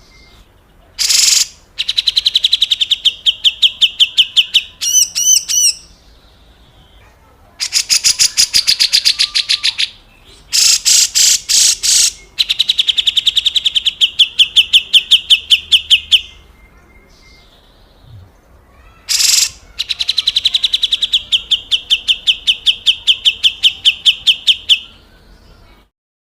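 Cucak jenggot (grey-cheeked bulbul) giving its harsh, rattling scolding call (besetan kasar): fast trains of about ten rasping notes a second, in phrases of two to four seconds separated by short pauses. A few short buzzy notes come in between, and the calling stops near the end.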